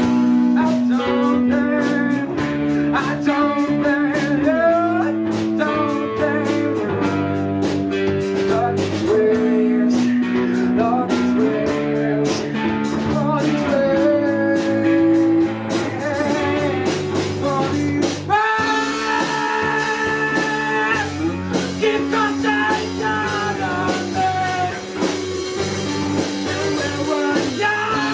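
Live rock band playing a song: guitars, bass and drums with a singing voice.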